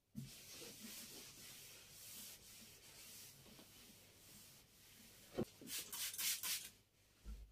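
Faint rubbing of something wiped across a surface, a steady scratchy hiss; a single knock about five seconds in, then a few short, louder rubbing strokes.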